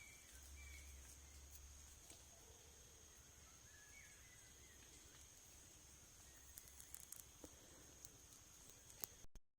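Faint outdoor quiet: a steady high insect drone with a few soft, short chirps. Some small clicks come near the end before the sound cuts out to dead silence.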